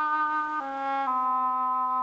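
Instrumental music: a single wind instrument plays a slow melody line, stepping down to a lower note about half a second in and again about a second in, then holding it.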